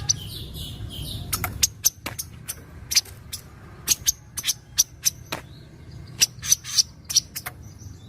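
Kaso-kaso bird calling: a trailing bit of song at first, then a string of short, sharp chip notes at irregular intervals, sometimes two or three in quick succession.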